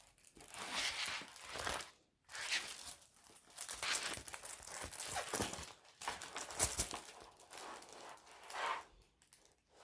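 Diamond painting kit packaging crinkling and rustling as it is handled, in several spells that stop about nine seconds in.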